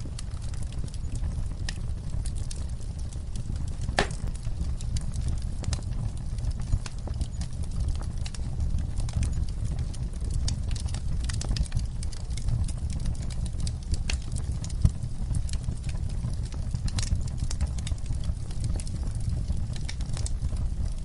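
Wood fire crackling: a steady low rumble of flames with scattered sharp snaps and pops throughout, one louder pop about four seconds in.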